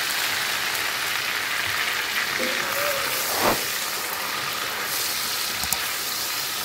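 Steady sizzling and bubbling of hot oil boiling with added water in a steel pot of fried onions, garlic-ginger paste and tomatoes. A sharp knock about halfway through, as a spatula goes into the pot, with a few light clicks after it.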